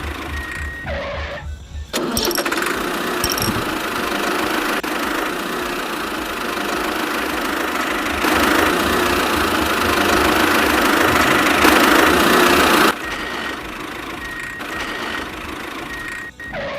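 Small electric gear motor of a miniature concrete mixer running. It switches on suddenly about two seconds in, gets louder twice, and cuts off abruptly near the end.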